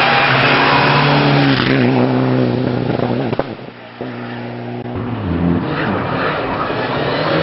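Mitsubishi Lancer Evo IX rally car's turbocharged four-cylinder engine revving hard as it passes. The revs drop about two seconds in and the engine fades as the car pulls away. After an abrupt cut, the engine is heard again, accelerating with rising pitch.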